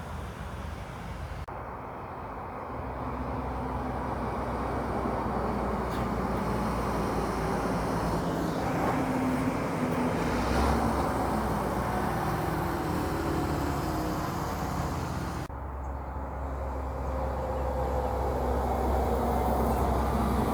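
Heavy trucks' diesel engines running as they drive past in road traffic, a steady low rumble that swells around the middle and again near the end.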